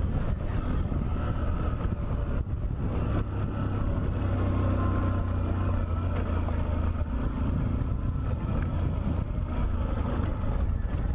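Macbor Montana XR1's single-cylinder 125 cc four-stroke engine, geared with a 13-tooth front sprocket, running under load at a fairly steady throttle as the motorcycle is ridden along a stony dirt track.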